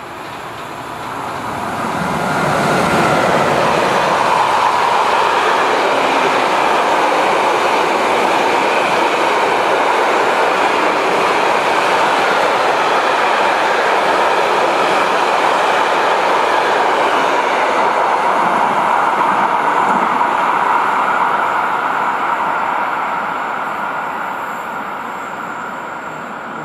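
CargoNet CE 119 electric locomotive and its container freight train passing: the sound builds over the first few seconds as the locomotive arrives. A long steady run of wheel-on-rail rolling noise follows as the container wagons go by, fading in the last few seconds as the train draws away.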